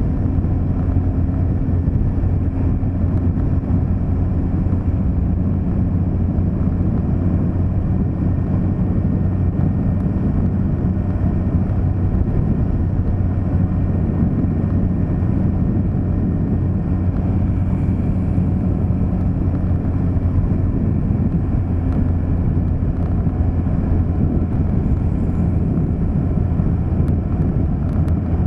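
Steady low drone of a vehicle driving along a road, engine hum and road noise mixed, unchanging throughout.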